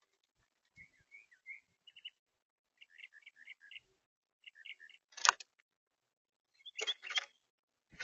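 Bird chirps, runs of short high notes, then a few sharp knocks: one loud knock about five seconds in and two more near the end.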